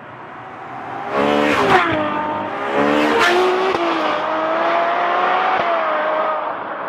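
Ferrari 812 Superfast's 6.5-litre naturally aspirated V12 accelerating hard past. The engine note climbs and breaks sharply twice at gear changes, about two and three seconds in. It then holds a steady high note that slowly fades as the car pulls away.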